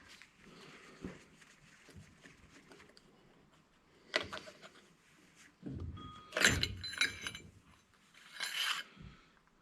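Small metal parts from a stripped-down angle grinder clattering and clinking as they are handled and dropped while being sorted for scrap. There is one sharp click about four seconds in, then a burst of metal-on-metal impacts with a brief ringing, and another clatter near the end.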